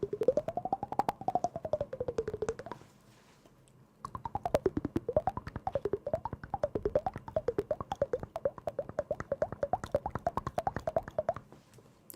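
A single sliding pitched melody with rapid clicking underneath: first one slow wavering note, then, after a short pause about three seconds in, a quick run of short notes bending up and down.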